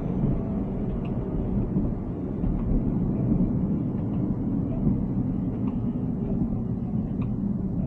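Steady low rumble of tyre and road noise from a Tesla Cybertruck driving along, with no engine note since it is electric, and a few faint ticks.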